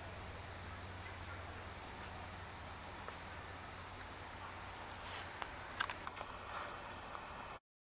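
Woodland outdoor ambience: a steady low background noise, with a few sharp clicks and rustles about five to six seconds in. The sound then cuts off abruptly to dead silence.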